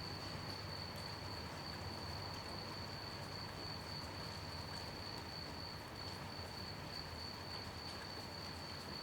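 Crickets chirping in one steady, unbroken high-pitched trill over the soft, even hiss of gentle rain, with faint scattered drip ticks.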